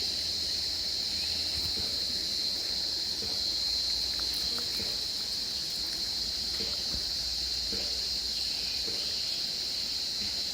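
Insects, likely crickets, chirring in a steady, unbroken high-pitched drone, with a few faint ticks beneath it.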